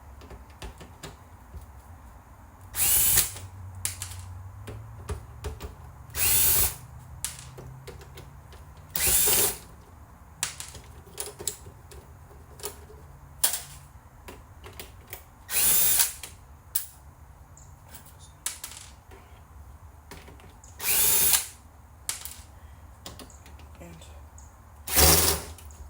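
Electric screwdriver running in six short bursts of about half a second each, backing screws out of a VCR circuit board. Light clicks and rattles of parts being handled come between the bursts.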